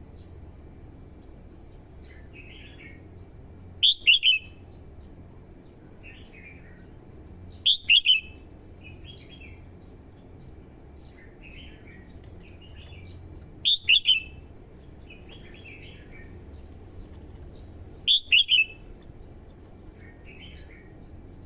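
Red-whiskered bulbul singing short, loud phrases of quick falling whistled notes, repeated four times about every four to five seconds, with softer chattering notes in between.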